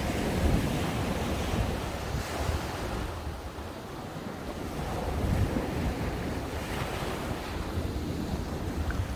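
Ocean waves breaking and washing up a sandy beach, a steady rush that eases a few seconds in and swells again with the next wave. Wind buffets the microphone with low rumbling.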